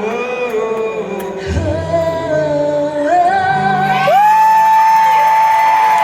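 Live rock band playing under a singer. The sung line moves through several notes, with low bass notes coming in about a second and a half in. About four seconds in, the voice rises to one long held high note.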